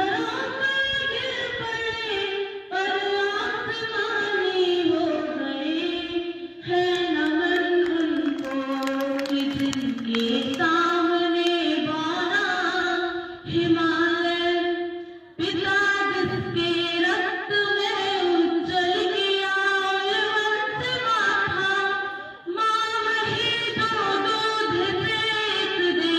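A girl singing a slow, melodic Hindi song solo, holding long notes with a wavering vibrato in phrases broken by brief pauses for breath.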